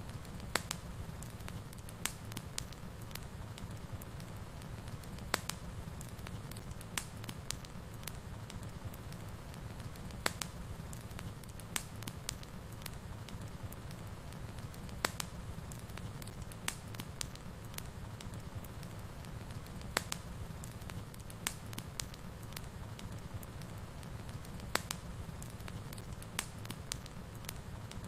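Wood fire burning in a fireplace: a steady low rumble with irregular sharp crackles and pops, about one a second.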